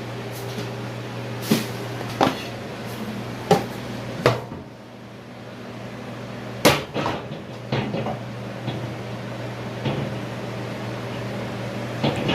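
Kitchen handling clatter: a handful of sharp knocks and clunks, the loudest about two-thirds of the way in and followed by smaller clatter, over a steady low hum.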